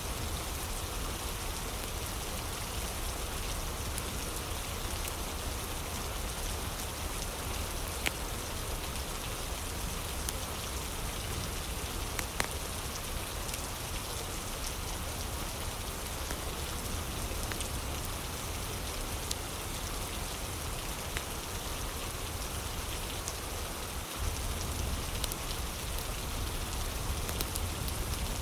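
Steady rain falling, with a few sharp crackles of a wood fire now and then.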